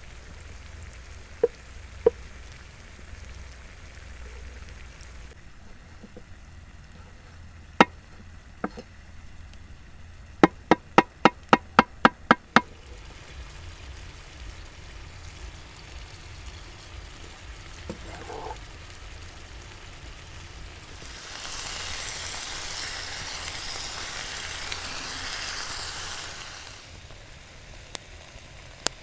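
Food preparation: a few scattered sharp knocks, then a quick run of about nine sharp chops, some four a second, then about five seconds of steady hissing.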